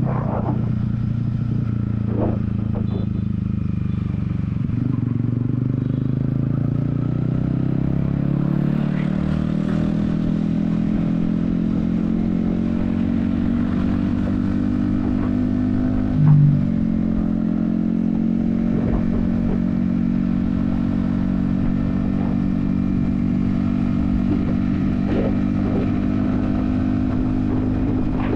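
Yamaha XSR155's single-cylinder engine pulling on the highway, heard from the rider's helmet. Its note rises slowly for the first half, then holds steady at cruising speed. A short, loud blip comes about halfway through.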